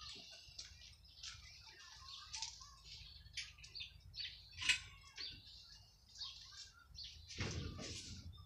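Small birds chirping in short, scattered high calls, with a brief louder noise near the end.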